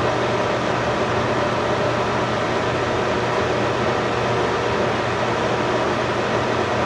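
Steady mechanical whir with a low hum, even and unbroken.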